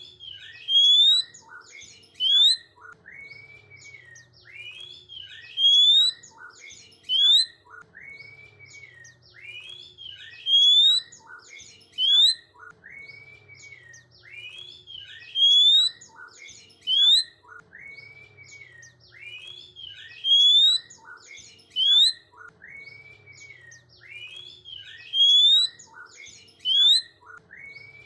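Oriental magpie-robin (kacer) song, one phrase repeating about every five seconds: a level whistled note, then a run of sweeping notes with two loud rising whistles about a second and a half apart.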